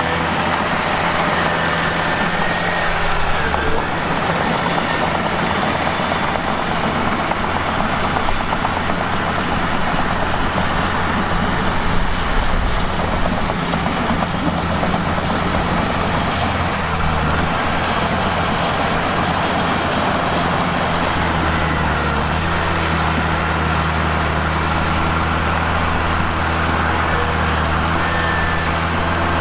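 Mitsubishi bulldozer's diesel engine running steadily under load while the machine works, its note shifting a few times as the load changes, over a dense mechanical clatter.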